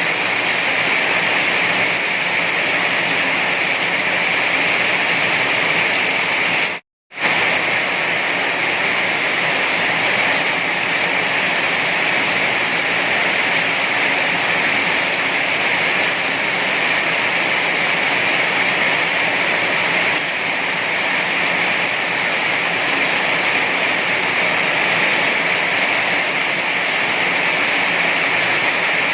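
Heavy rain falling as a steady, dense hiss. The sound cuts out completely for a fraction of a second about seven seconds in, then resumes unchanged.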